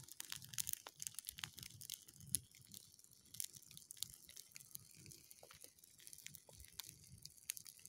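Faint, irregular crackling and popping of dry grass burning on a small bonfire.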